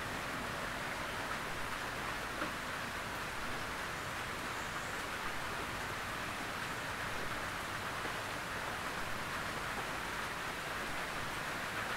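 Steady rain on a tin roof: an even, continuous patter-hiss with no thunder or separate drops standing out.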